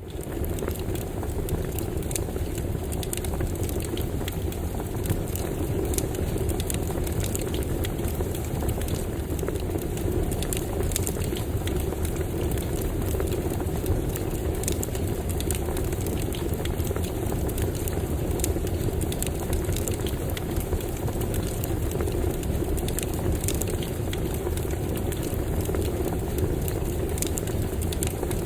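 Campfire burning with a steady low rumble of flame and frequent small crackles and pops of burning wood.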